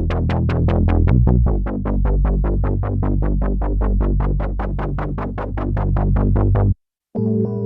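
Sequential Circuits Prophet VS vector synthesizer playing a fast repeating pattern of short plucked notes, about five a second, over a sustained low bass tone. Near the end the sound cuts off abruptly, and after a brief gap a sustained chord pad begins.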